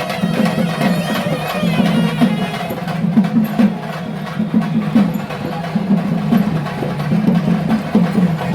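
Traditional percussion played live: drums beaten in a busy, uneven rhythm with sharp stick clicks, and voices chanting faintly underneath.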